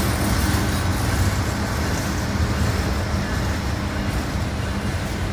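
Freight train's diesel locomotives passing close by: a steady engine drone with wheels rolling on the rails, easing slightly as the last locomotive goes by and the loaded flatcars follow.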